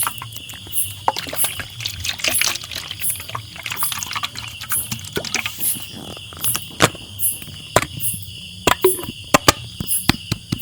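Irregular close-up clicks and taps, some single sharp ones standing out, over a steady faint hiss: ASMR trigger sounds.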